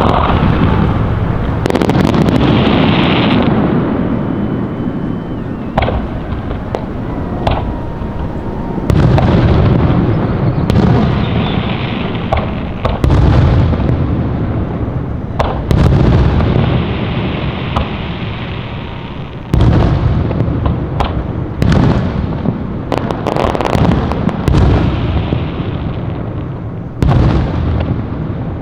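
Aerial fireworks bursting: a long string of loud booms, one every second or two, each followed by a rumbling echo that fades slowly.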